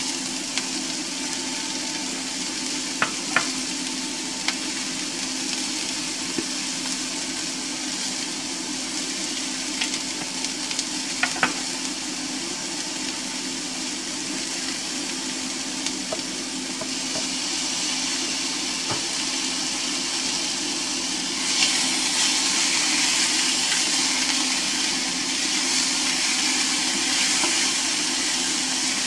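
Mushrooms and onions sizzling as they sauté in a nonstick frying pan, with a few light clicks in the first half. The sizzle grows louder about two-thirds of the way through, and near the end the food is stirred with a silicone spatula.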